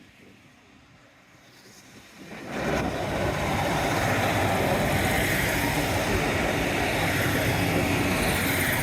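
Train passing close by: its noise rises quickly about two and a half seconds in and then stays loud and steady, with a low steady hum underneath.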